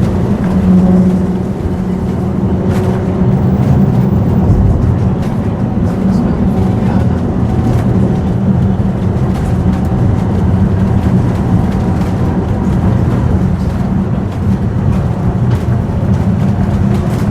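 Vintage tram running along its track: a steady loud rumble with a low motor hum and occasional faint clicks.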